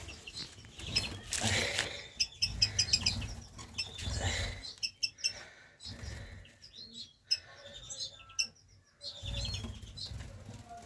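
Caged finches chirping in short high calls now and then, with wings fluttering as they move about the cage.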